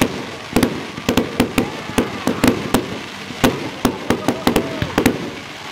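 Fireworks going off in a rapid, irregular barrage: several sharp bangs and crackles a second from a ground-level cake, with a few faint falling whistles between them.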